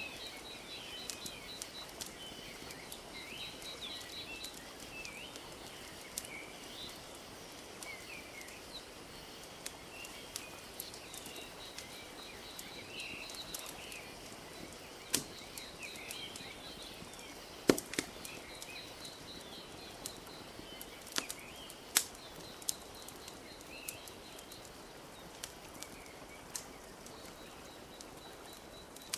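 Wood fire crackling with scattered sharp pops, a few louder snaps past the middle, over a steady wash of gently lapping lake water. Small birds chirp throughout, with a rapid ticking trill.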